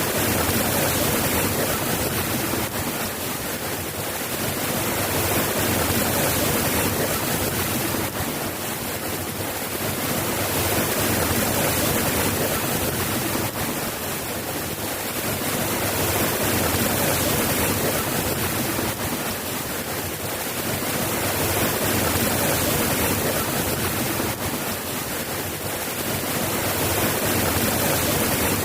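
Steady rain: an even hiss that gently swells and eases every five or six seconds, with no thunder.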